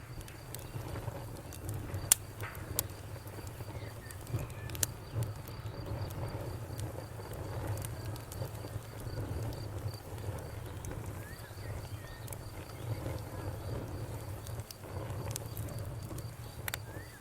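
Campfire crackling, with sharp pops about two, three and five seconds in and again near the end, over a low steady rumble. A steady high insect trill runs under it, and a bird chirps faintly now and then.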